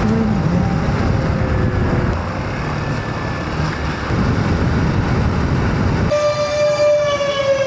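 Motorcycle riding noise: engine rumble and wind rush. About six seconds in the rumble cuts off suddenly, and a loud, sustained horn-like tone with many overtones takes over, slowly falling in pitch.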